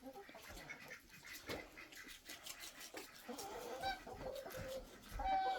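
Chickens clucking softly as they find food, with a couple of short, higher pitched calls later on: a rooster food-calling his hens to the lettuce.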